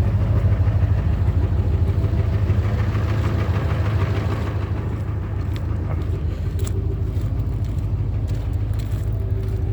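Ford 7.3 L Power Stroke V8 turbodiesel idling steadily, cold, shortly after a start in 15° weather.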